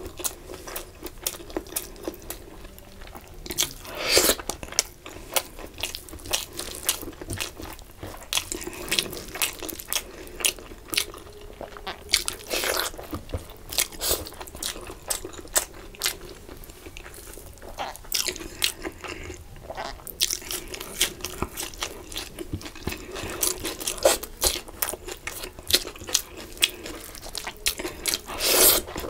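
Close-miked eating: irregular chewing, crunching and mouth clicks as fried fish and rice are eaten by hand, with a few louder bites about four, twelve and twenty-eight seconds in.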